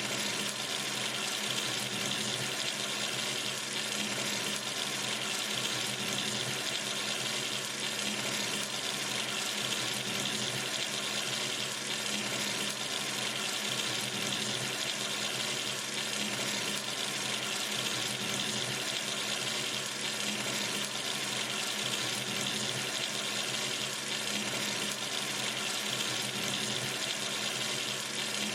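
Kitchen or bathroom sink tap running steadily, water pouring into the basin in an even hiss with no change.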